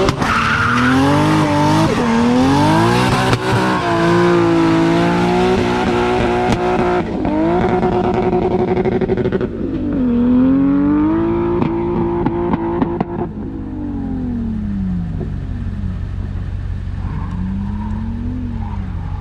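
Nissan Silvia S15 drift car's engine revving hard through a drift run, its pitch climbing and dipping again and again as the throttle is worked, over tyre screech. After about 13 seconds it drops away to fainter, more distant revving.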